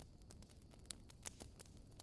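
Faint crackling of burning firewood: scattered, irregular small pops and snaps over a low rumble, with a couple of sharper snaps about a second in.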